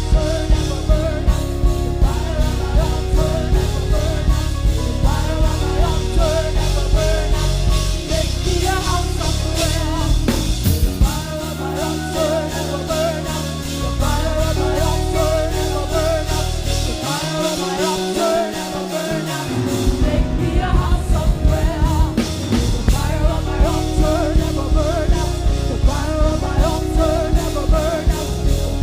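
Live worship band music with a steady drum beat and sustained chords, a voice singing over it; the bass drops out briefly twice.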